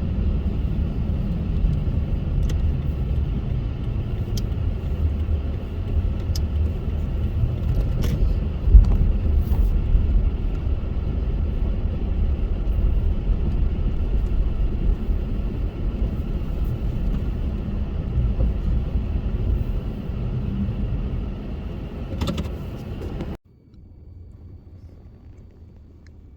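Car driving in a snowstorm: a steady low rumble of engine and road noise, with a few light clicks and one sharp knock about nine seconds in. It cuts off suddenly a few seconds before the end, leaving a much quieter background.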